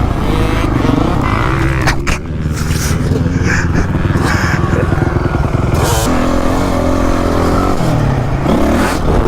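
Honda CRF450 four-stroke motocross bike being ridden, its engine revving up and down continuously, with a drop in revs around eight seconds in before it picks up again.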